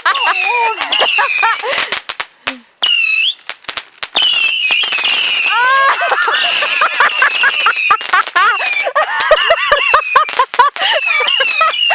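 Fireworks going off in a rapid barrage: dense pops and crackles mixed with whistling shots that glide and waver up and down in pitch, with a brief lull a few seconds in.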